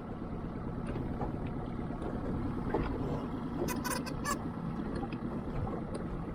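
Small outboard motor running steadily, with a few light clicks about four seconds in.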